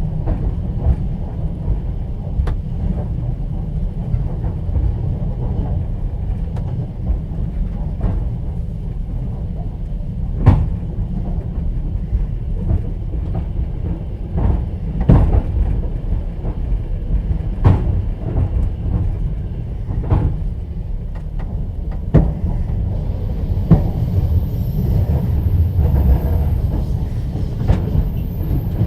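Moving passenger train heard from inside a platzkart sleeping car: a steady low rumble of the running gear, with the wheels knocking sharply over rail joints every two to three seconds.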